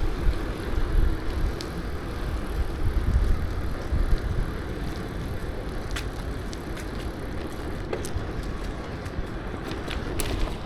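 Bicycle riding along a path: a steady low rumble of tyres and wind on the microphone, with a few scattered light clicks.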